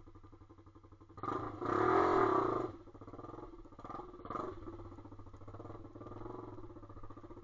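Pit bike engine running at low revs, then revved up hard for about a second and a half starting a little over a second in, before dropping back to a steadier lower run.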